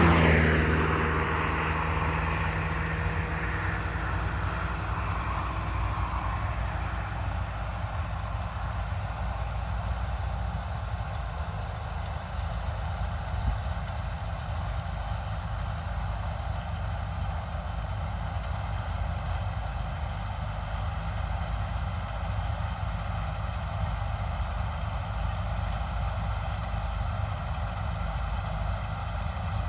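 Harvest machinery's diesel engine running steadily with a low drone. A louder rushing noise at the start fades away over the first few seconds.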